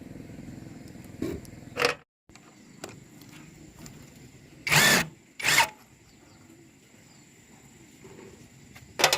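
A steady low mechanical hum that cuts off abruptly about two seconds in, followed by several short sharp knocks, two close together in the middle and one near the end.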